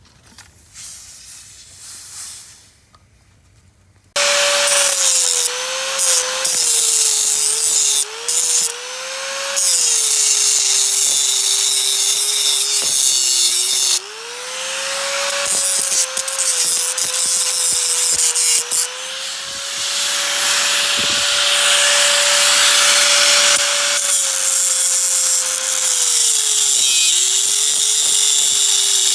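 Handheld electric power tool starting up about four seconds in and running hard for the rest of the time. Its motor pitch sags and recovers as the tool bites under load, with a few brief let-ups.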